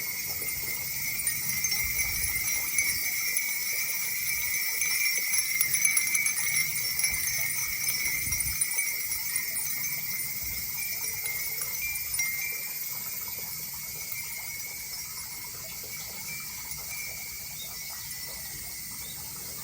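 Wind chimes tinkling continuously, their bright metal tones shimmering. They ease off a little about two-thirds of the way through.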